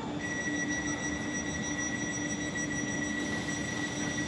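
Electric passenger train standing at the platform, giving a steady low hum. A steady high-pitched whine comes in just after the start and holds.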